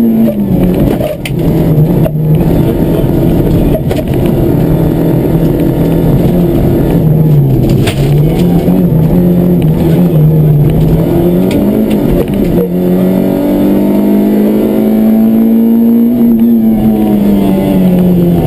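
Rally car engine heard from inside the cabin, driven hard, its note dropping and climbing again with each gear change. About two-thirds through it climbs steadily for a few seconds, then falls away toward the end as the car slows, with road noise underneath throughout.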